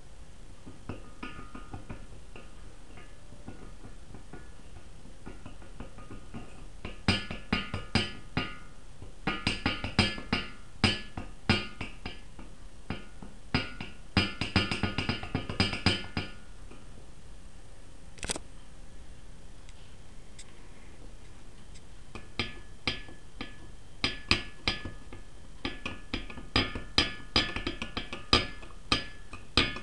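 Irregular runs of sharp metallic clacks, each ringing briefly, from a Royal Enfield single-cylinder piston being rocked in its bore. The excessive piston-to-bore clearance is the cause of its piston slap.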